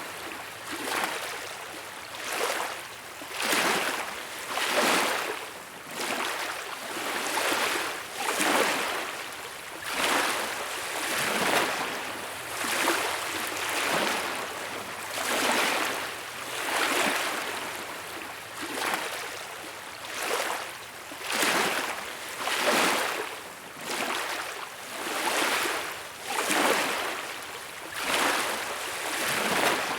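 Small beach waves washing onto the shore: a rushing surf that swells and falls back about every second or two, in a steady rhythm.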